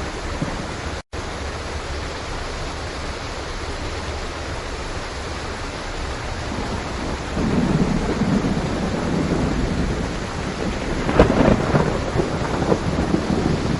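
Steady heavy rain with thunder. About a second in there is a split-second dropout. Low rolling thunder builds about halfway through, and a sharp thunderclap comes near the end, followed by more rumbling.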